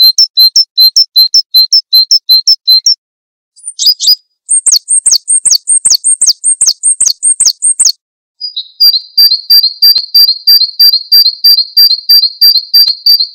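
Recorded small songbirds giving strings of rapidly repeated high chirps in three separate phrases, each a different note pattern, with short dead-silent gaps where the recordings are spliced together. This is a bird-training track for Javan white-eyes.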